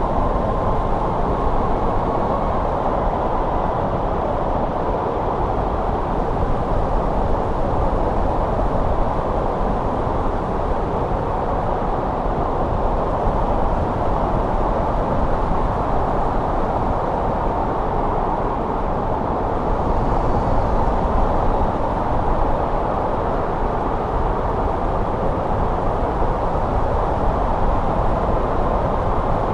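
Steady snowstorm wind blowing in a continuous deep rush, with a faint whistle sitting above the rumble.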